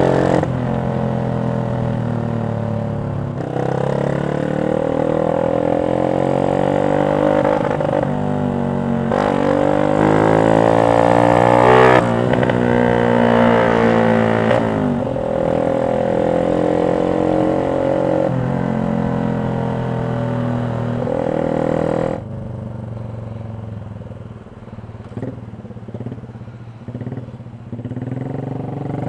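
Yamaha Jupiter MX 135's single-cylinder four-stroke engine breathing through a CLD X Monster aftermarket racing exhaust, heard while riding. It runs steadily, revs up with a rising pitch and drops sharply at a gear change about twelve seconds in; about twenty-two seconds in the throttle is closed and it runs quieter with a few short blips.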